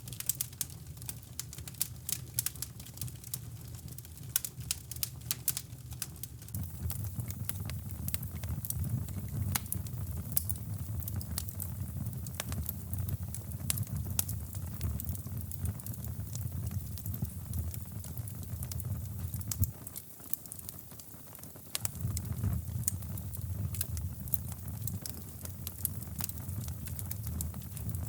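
Wood fire crackling in a fireplace, with many sharp irregular pops and snaps, over a steady low rumble of brown noise that briefly drops away about two-thirds of the way through.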